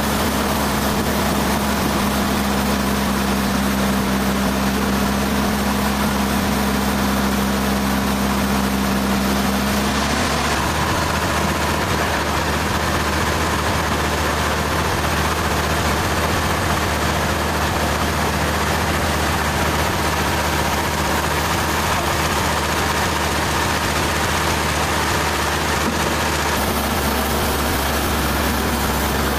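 Sawmill machinery running steadily. A low hum drops out about ten seconds in and the running sound changes slightly.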